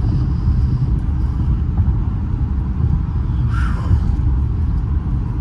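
Steady low rumble of road and engine noise inside the cabin of a 2015 Infiniti Q50 while it is driven.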